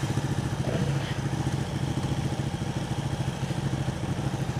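Honda 919 motorcycle's inline-four engine idling steadily while stopped, an even low throb.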